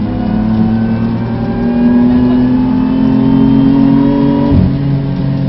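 BMW F80 M3's twin-turbo straight-six, heard from inside the cabin, accelerating with its pitch climbing steadily. There is a quick upshift right at the start and another about four and a half seconds in.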